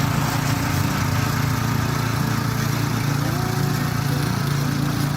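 Single-cylinder 170 petrol engine of a walk-behind tiller running steadily while it works the soil.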